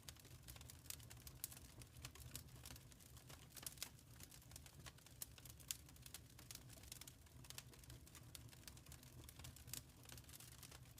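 Wood fire crackling in a fireplace: quiet, irregular pops and snaps over a low steady rumble.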